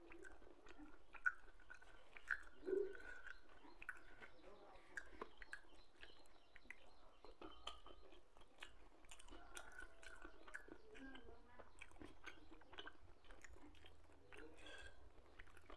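Faint close-up chewing of a person eating rice and peanut-sauce pecel by hand, with many small wet mouth clicks and light crunches.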